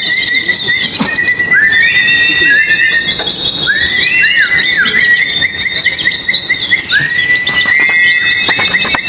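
Several pleci (white-eyes) singing at once: dense, rapid high chattering trills over long whistled notes that each rise sharply into a held, steady pitch, one starting after another.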